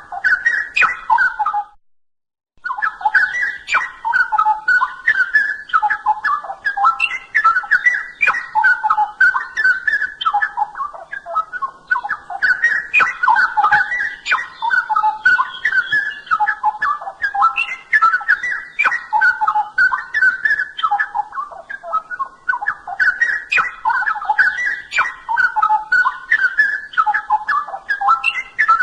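Straw-headed bulbul (cucak rowo) singing continuously in rich, bubbling warbled phrases. The song cuts out briefly about two seconds in, then runs on without a break.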